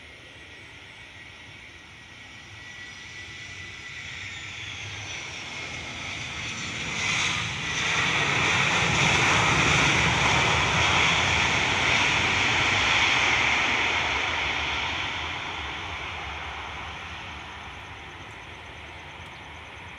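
Boeing 737-300 jet airliner's turbofan engines passing by: the jet noise swells with a falling whine, is loudest for several seconds in the middle, then slowly fades away.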